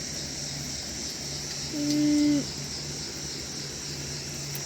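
Steady high-pitched chirring of an evening insect chorus, with a brief flat-pitched hummed voice sound from a person, like a held "mmm", about two seconds in.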